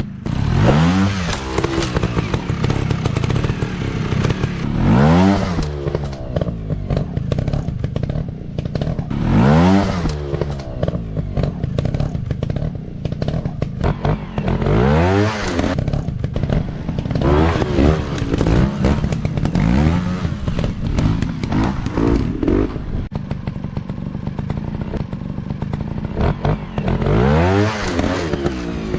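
Off-road trail motorcycles running with repeated throttle bursts: the engine pitch climbs and falls about seven times, a few seconds apart, between steadier running.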